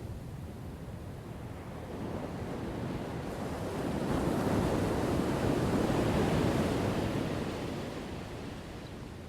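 Ocean waves crashing: one wave builds from about two seconds in, is loudest in the middle, and washes back down near the end.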